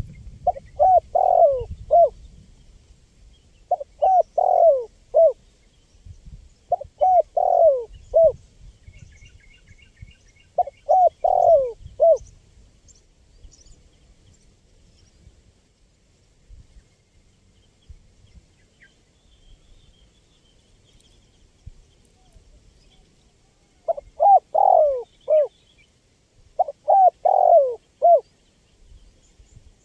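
Spotted dove cooing: six phrases of several coos each, a few seconds apart, with a long pause in the middle. Faint chirps of a smaller bird come in once between phrases.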